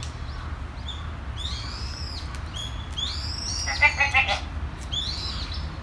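A bird repeating a high, arching call three times, about a second and a half apart, over a steady low rumble. A short pulsing sound about four seconds in is the loudest moment.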